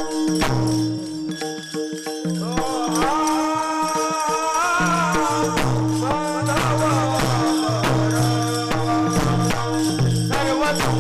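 Devotional kirtan music: a steady drone and drum beats with jingling percussion, and a voice singing a gliding melody line that comes in about two seconds in.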